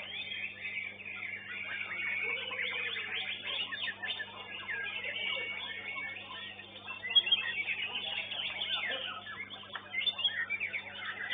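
Contest songbirds singing fast, overlapping high chirps and trills, with a few sharper loud notes about seven seconds in and near the end, over a steady electrical hum.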